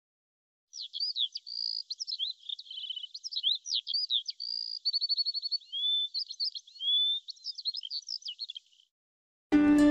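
A songbird singing a rapid, varied song of chirps, whistles and short trills, starting about a second in and stopping shortly before the end. Music with plucked strings begins right at the end.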